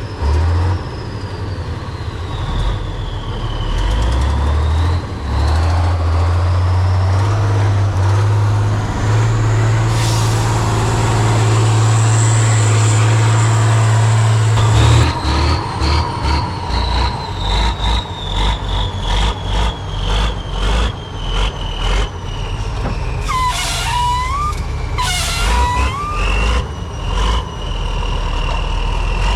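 Heavy off-road trial truck's diesel engine working hard, with a whine that falls and rises in pitch as it changes load. About halfway through, a quick run of knocks and rattles sets in, and two short squeals come near the end.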